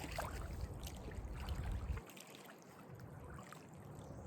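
River water running, with a low rumble that cuts off abruptly about two seconds in.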